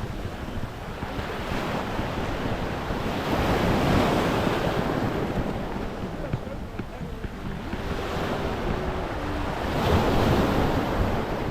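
Small waves washing onto the beach, swelling twice, about four seconds in and again near the end, with wind buffeting the microphone.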